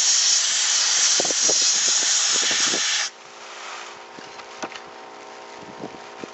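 Central Pneumatic gravity-feed sandblasting gun blasting, a loud steady hiss of compressed air and abrasive that cuts off suddenly about three seconds in when the trigger is released. After that a small oil-less air compressor runs with a steady hum, with a few light ticks.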